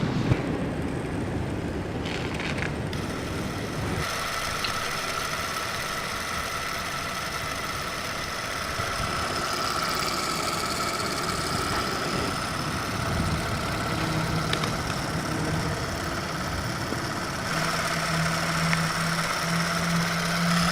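A steady mechanical drone like a running engine, with a thin steady whine above it. A low hum that cuts in and out at regular intervals joins it about two-thirds of the way in.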